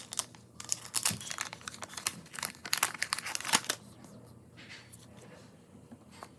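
Packaging crinkling and rustling in the hands as a mail delivery of stickers is opened, dense crackles for about four seconds, then only faint rustles.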